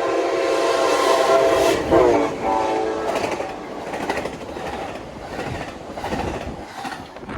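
Amtrak passenger train with Siemens Charger locomotive 2111 passing at speed. Its horn sounds a chord that drops in pitch about two seconds in as it goes by and stops about a second later. The cars then rush past with a rhythmic clatter over the rail joints, fading away.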